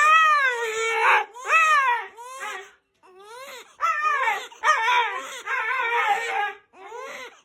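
A dog whining and crying in a string of high, rising-and-falling wails, one after another with short breaks, sounding much like a crying baby.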